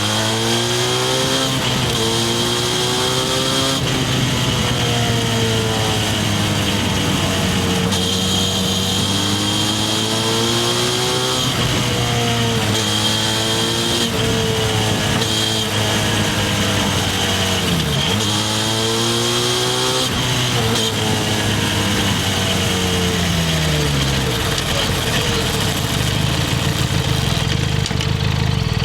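Harley-Davidson X350's parallel-twin engine under way, its revs repeatedly climbing and dropping as it accelerates and shifts gears. Over the last few seconds the revs fall away to a low, steady note.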